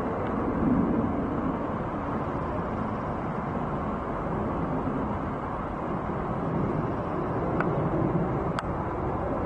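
Steady vehicle rumble with no clear rise or fall, and two faint ticks near the end.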